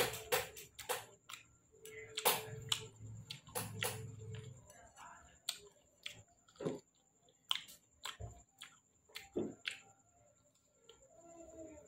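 Close-up mouth sounds of a person eating soft, ripe cut fruit: wet chewing with many sharp, irregular lip smacks and clicks.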